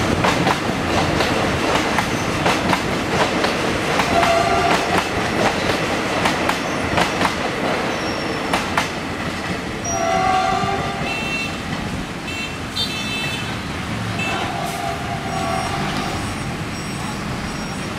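Diesel-hauled passenger train passing close by over a level crossing, its wheels clattering over the rail joints in a rapid run of clicks that thins out after about ten seconds. Several short horn honks sound over it, the last of them as the clatter fades into road traffic noise.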